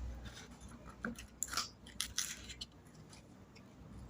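Faint handling noises of a medicine box or packet being opened: scattered small clicks and short rustles of cardboard and paper.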